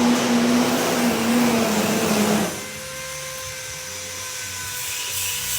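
A machine running steadily with a hum under a loud rushing noise, dropping suddenly to a quieter steady whine about two and a half seconds in.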